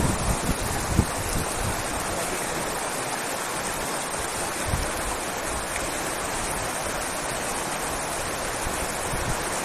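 Steady rush of flowing river water, with a few low wind thumps on the microphone in the first second or so.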